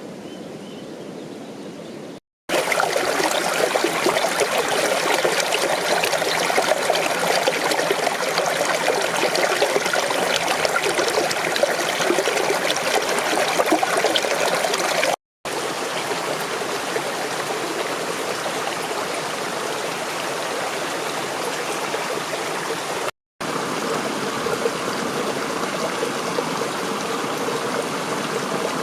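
Steady rush of running water from a mountain stream, broken by abrupt cuts between shots; it is loudest for about thirteen seconds after the first cut, then steadies at a lower level.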